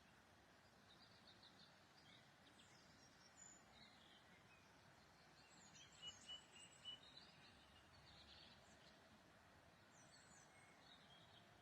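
Faint songbirds chirping and trilling, several short calls scattered through, over a low background hiss.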